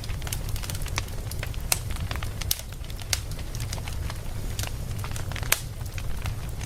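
Campfire crackling, with dense small ticks and a few louder sharp pops, the loudest about two and a half, three and five and a half seconds in. A steady low rumble runs beneath the crackle.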